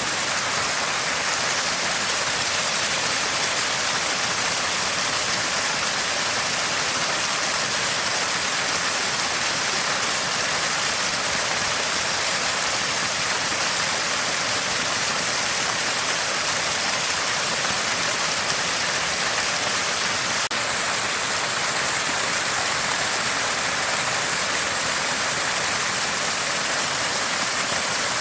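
Water gushing and gurgling from a small spring, a steady even splashing that doesn't change.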